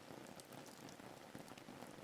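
Faint rain ambience: a steady hiss of rainfall with scattered small drop ticks.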